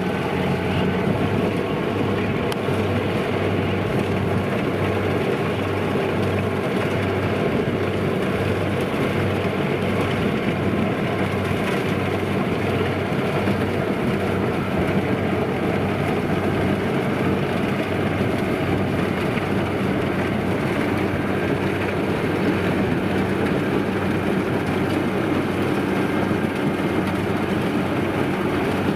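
Kubota DC-93 rice combine harvester running steadily: a diesel engine drone with a faint low pulse, under dense, even machine noise that does not let up.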